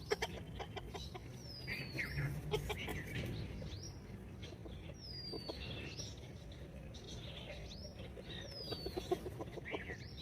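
Chickens: hens giving short clucks, with clusters near the start and near the end, while chicks give repeated high, falling peeps every second or two.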